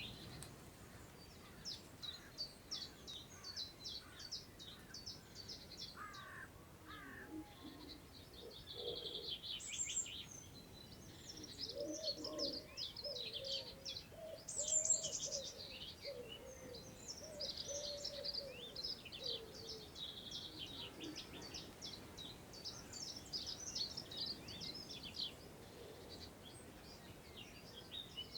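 Several songbirds singing in overlapping, rapid high-pitched phrases and trills, over a faint steady hiss of wind in grass. A separate run of lower-pitched calls comes in about the middle.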